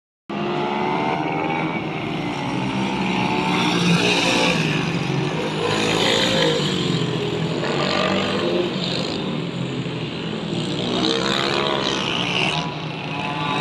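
Pit bike engines running and revving as the bikes ride, their pitch rising and falling with the throttle.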